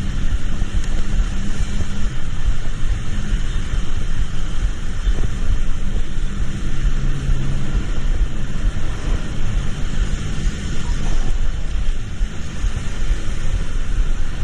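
Vehicle on the move in the rain: a steady low engine drone under a dense hiss of rain and road noise.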